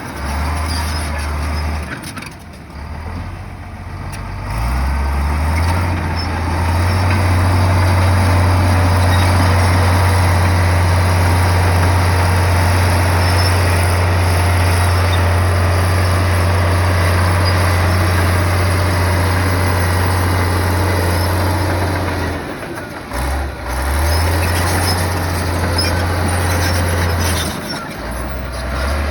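Komatsu bulldozer's diesel engine running hard, rising in pitch about five seconds in and holding a steady heavy drone. It dips briefly twice near the end.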